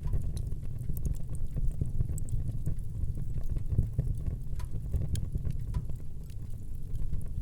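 Wood fire burning in a fireplace: a steady low rumble of flame, with frequent small, sharp crackles and pops from the burning wood at irregular intervals.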